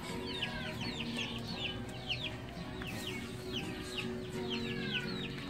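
Birds chirping over and over: short high notes that slide downward, several a second, with a faint steady hum underneath.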